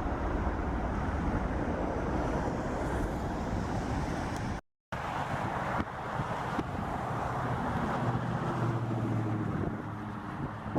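Jet aircraft engines running with a steady roar, with wind buffeting the microphone. The sound cuts out completely for a moment about halfway through, and a low steady hum comes through in the second half.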